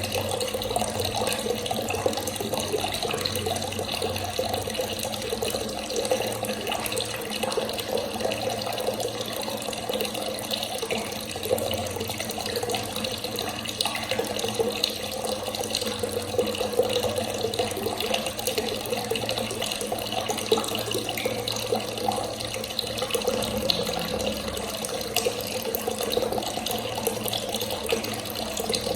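Water running steadily from a tap, splashing continuously.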